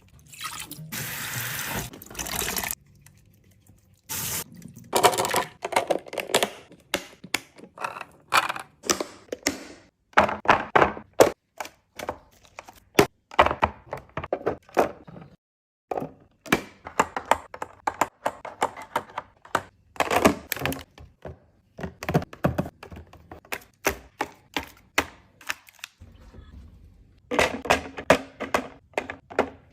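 Handling sounds of fridge organizing: a long series of clacks, taps and thunks as containers, lids and items are picked up and set down, with a couple of brief hissy stretches near the start and near the end.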